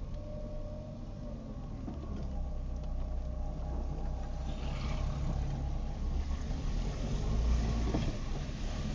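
Car being driven in the rain, heard from inside: a steady low engine and road rumble, with a hiss of wet road noise that rises about halfway through.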